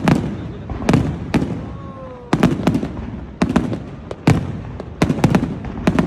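Fireworks shells bursting in quick succession: sharp bangs, often two or three close together, each followed by a low rumbling echo.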